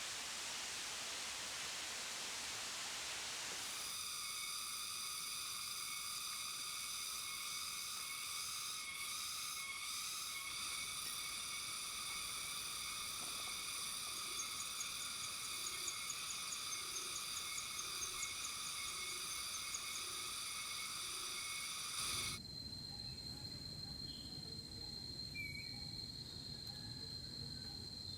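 Steady insect chorus of several high, even whining tones, with a run of about eight soft, low, evenly spaced notes partway through. After an abrupt change it becomes a single steady high insect whine over a faint low rumble.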